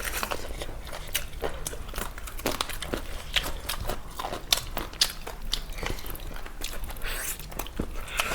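Close-miked eating: irregular crunching bites and chewing of crispy food, many small crackles in quick succession.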